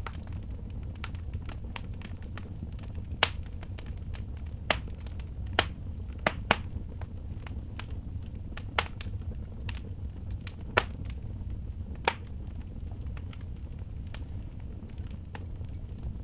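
Wood fire in a fireplace burning, with irregular sharp crackles and pops over a steady low rumble.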